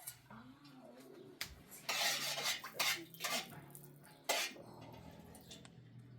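Dishes and cutlery clinking and clattering, a run of sharp knocks through the middle with the busiest stretch about two seconds in.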